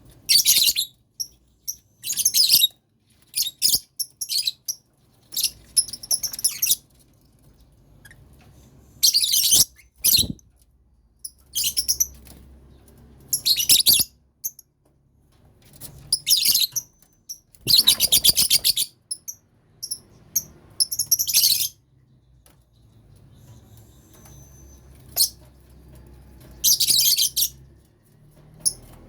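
Lovebirds chirping in loud, shrill bursts that come and go every second or two, with short gaps between.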